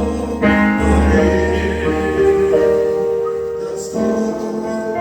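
Gospel keyboard accompaniment playing sustained chords over a low bass line, the chords changing every second or so.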